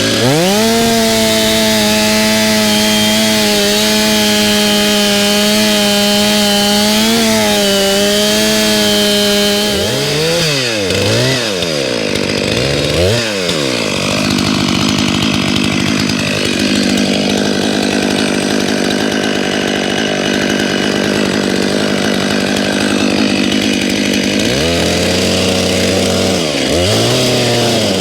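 Stihl MS 261 C-M two-stroke chainsaw held at high revs with a steady pitch for about ten seconds. The throttle then drops and is blipped a few times, the saw runs lower for about ten seconds, and it revs up and down twice more near the end.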